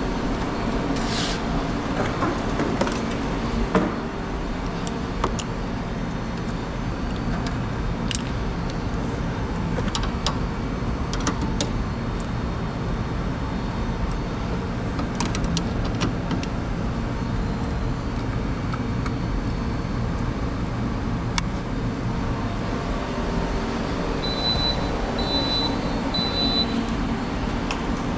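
A machine running steadily, with scattered sharp metallic clicks and, near the end, three short high beeps.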